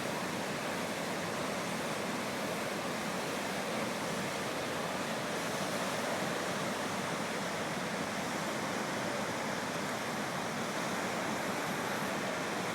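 The Deerfield River in flood from Hurricane Irene's rains: a steady rush of fast, high water.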